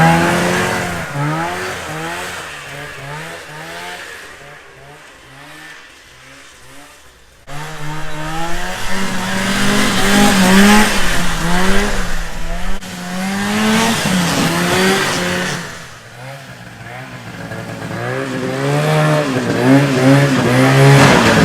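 1973 Arctic Cat Panther 340 snowmobile's two-stroke engine running on the snow, its pitch rising and falling over and over as the throttle comes on and off. It fades away over the first several seconds, comes back suddenly and loud after an abrupt cut, dips again, then builds up near the end.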